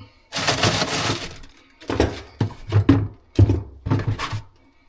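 Clatter of tools and parts during plumbing work: a crash about half a second in, then about six sharp knocks.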